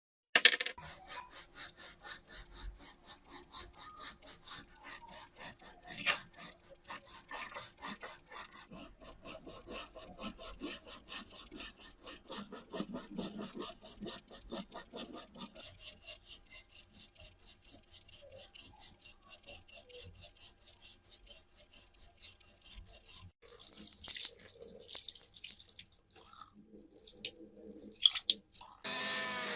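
Quick, even back-and-forth hand strokes of a brush or abrasive scrubbing a rusty metal part, stopping near the end and followed by a few irregular rubbing sounds.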